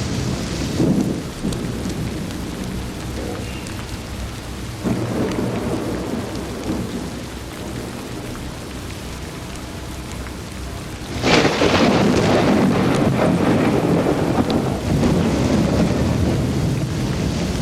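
Thunderstorm with steady rain and low rumbles of thunder. About two-thirds of the way through, a sudden loud thunderclap breaks and rolls on as a long rumble.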